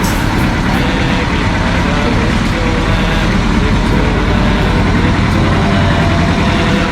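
Steady vehicle engine and road rumble.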